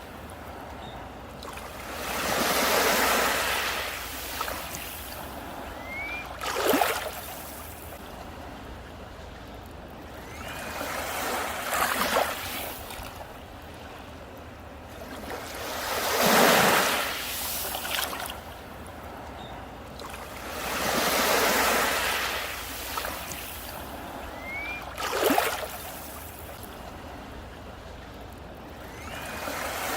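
Sea waves breaking on a beach: a surging wash that swells and fades every four or five seconds, with a sharper crash as a wave breaks close by about a quarter of the way in, again near the middle and later on.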